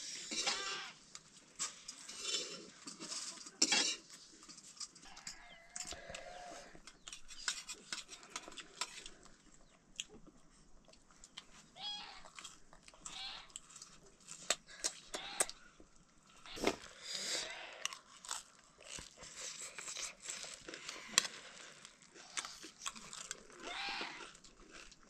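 Crunching and chewing of snacks, with many small clicks and crackles, and a few short faint animal calls.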